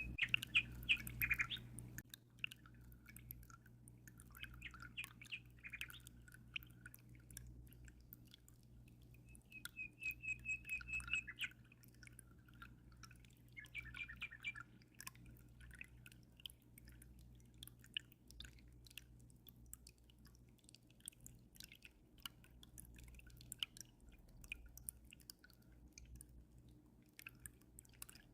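Small birds chirping in short bursts, with a clear trill about ten seconds in, over faint dripping and trickling aquarium water and a steady low hum.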